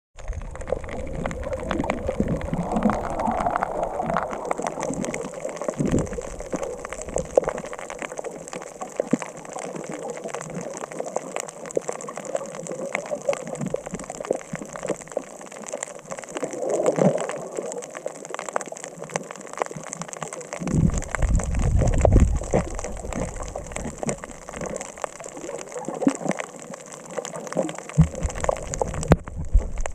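Underwater sound through a camera housing: a steady crackle of many small clicks, with gushing bubble bursts a few times, the strongest and deepest about two-thirds of the way through.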